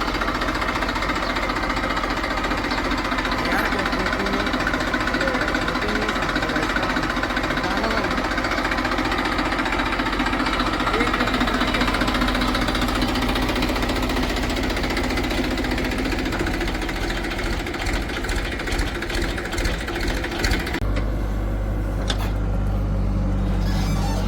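Heavy diesel machinery running with a rapid, rattling clatter; about 21 seconds in, the sound turns to a steadier, lower engine hum.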